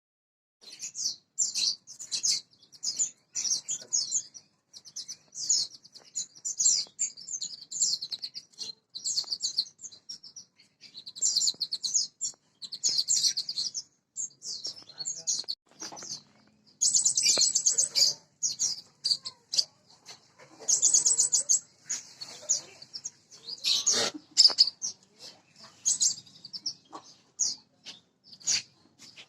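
Prenjak (a small prinia-type songbird) singing: high, rapid clicking trills in short repeated bursts with brief pauses between them, starting about half a second in. The longest and loudest runs come a little past halfway.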